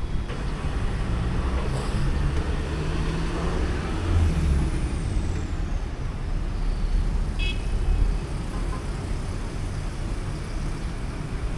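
City road traffic running steadily, with engines swelling as vehicles pass, and a short horn beep about seven and a half seconds in.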